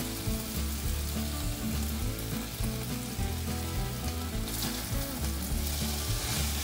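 Beef fajita strips with onion and sweet pepper sizzling in a hot frying pan, a steady hiss that swells a little about two thirds of the way through.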